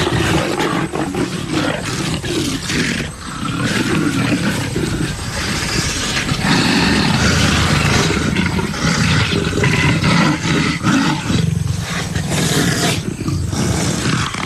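Two leopards, a male and a female, growling and snarling at each other in a fight over dominance. The sound is loud, rough and near-continuous.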